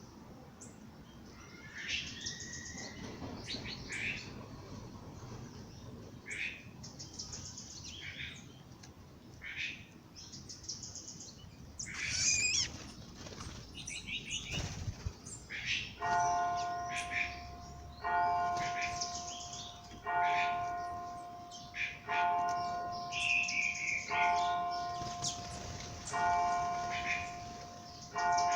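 Songbirds chirping and trilling at dawn. About halfway through, a single bell begins tolling, one stroke roughly every two seconds, each stroke ringing on and fading before the next.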